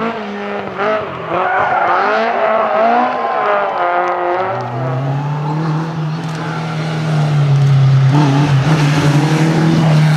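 Rally car engine revving hard, its pitch swinging up and down, then held at a steady high note from about four seconds in.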